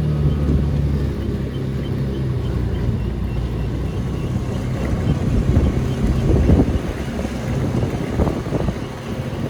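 Small engine of a three-wheeled GoCar running steadily while driving, with a low hum that shifts pitch slightly. Wind rushes over the microphone, with gusts in the second half.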